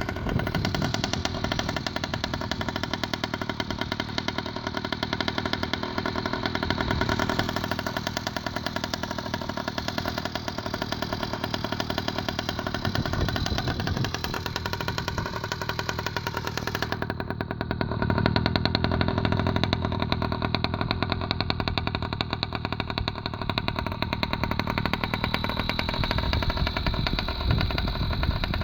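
66cc Chinese two-stroke motorized-bicycle engine running through a baffleless Thrust Racing expansion-chamber muffler, a pretty loud, fast-popping exhaust. It runs steadily and grows louder for a stretch about two-thirds of the way through.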